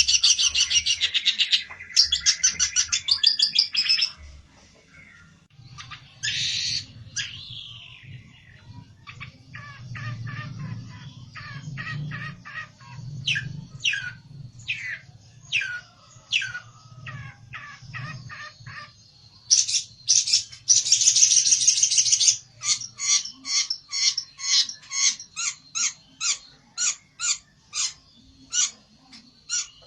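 A small songbird kept as a pelentet singing an agitated, aggressive song: loud bursts of very fast repeated high notes, a quieter stretch of separate sweeping and falling notes, another loud fast burst about two-thirds of the way in, then a string of short sharp notes. A faint low hum sits under the middle part.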